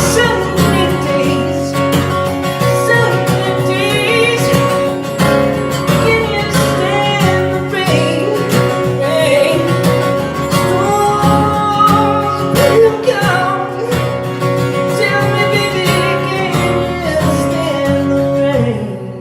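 Music: an acoustic guitar played with a singing voice, the level falling away near the end.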